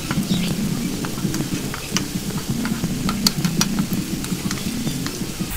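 Sliced shallots frying in oil in a steel wok, sizzling with a steady scatter of small pops and crackles as a wooden spatula stirs and scrapes them, over a low steady rumble.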